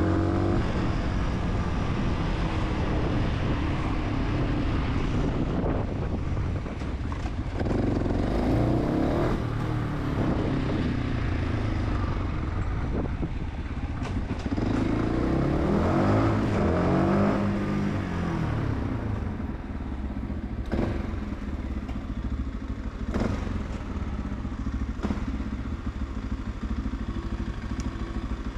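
Fantic 125 supermoto motorcycle engine under way, revving up and dropping back between gears a few times, then running lower and steadier for the last third, with a few sharp clicks.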